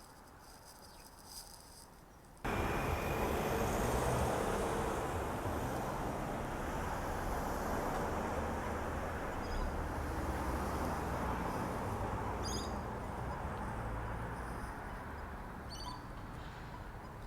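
A steady rushing noise that starts abruptly about two and a half seconds in. A few short, high bird chirps sound over it later on.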